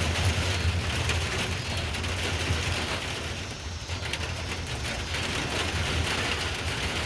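Steady rain falling in a thunderstorm, with wind and a gentle, low rumble underneath.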